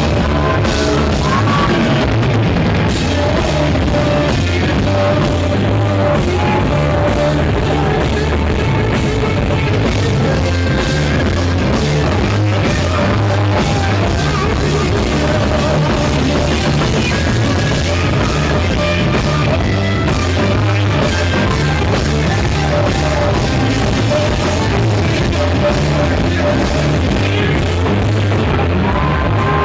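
Rock band playing live at full volume: an instrumental passage with electric guitar lines over drum kit and bass.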